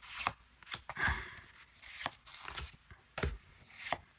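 Pokémon trading cards being handled and laid down on a table: irregular light taps and slides of card, with some rustling.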